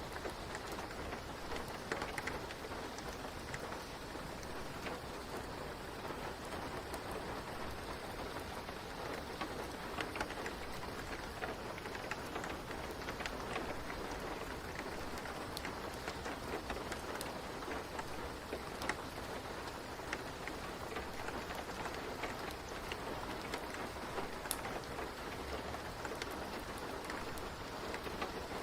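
Steady rain falling, an even hiss peppered with many small, sharp ticks and pops, mixed with the crackle of a wood fire.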